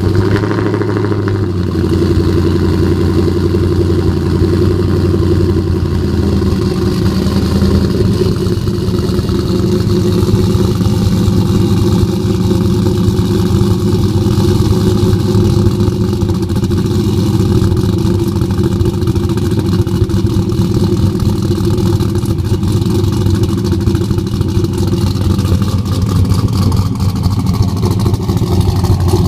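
Chevrolet Vortec 5.3 V8 with headers and an aftermarket 228/234 camshaft idling just after a cold start. The idle is loud and steady, with the choppy lope of the big cam, and settles slightly about seven seconds in.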